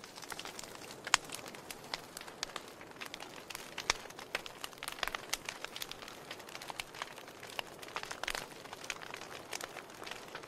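Wood log fire crackling: irregular sharp pops and snaps over a soft steady hiss, with a couple of louder pops about a second in and near four seconds.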